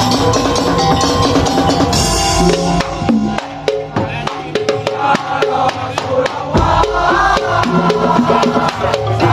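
Madurese ul-daul (tong-tong) percussion ensemble playing. Sustained melodic tones ride over the drums, and a cymbal-like crash comes about two seconds in. The music then drops to a drum-led passage of quick, evenly spaced strikes, and the melody comes back near the end.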